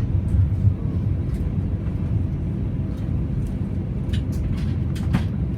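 Steady low rumble inside an Airbus A320's passenger cabin on the ground before takeoff, with a few light clicks about four and five seconds in.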